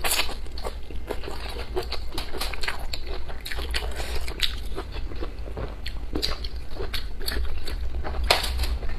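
Close-up biting and chewing of a raw green chili pepper: irregular crisp crunches, with a sharp bite at the start and another loud crunch near the end.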